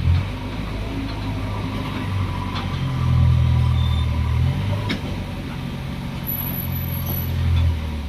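Heavy diesel engines of earth-moving machinery at work, the engine note rising and getting louder twice as it revs under load, with a few short metallic knocks.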